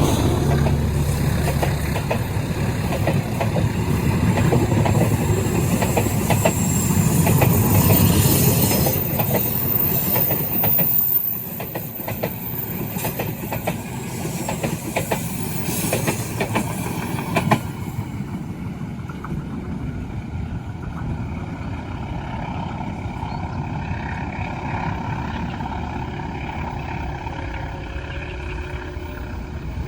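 A train rolling past on the track, its wheels clattering over the rail joints in rapid clicks. About 11 seconds in it eases off, and the last sharp click comes at about 17 seconds. After that the train fades to a quieter, steady rumble.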